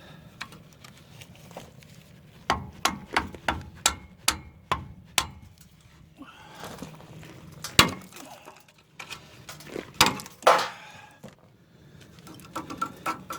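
Hammer striking metal brake parts: a quick run of about eight blows, then a few heavier single blows, with lighter taps near the end. The parts are rusted in place.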